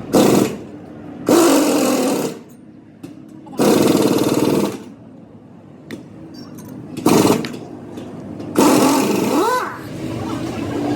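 A power tool run in five short bursts of about half a second to a second each, with quieter gaps between, typical of workshop machine-repair work.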